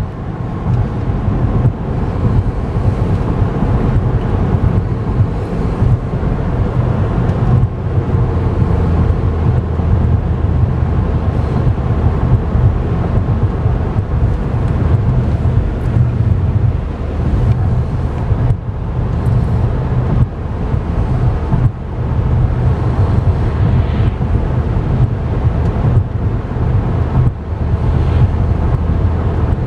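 Steady low rumble of road and tyre noise inside a 2011 Chevy Volt's cabin as it is driven along the road, with a few brief dips.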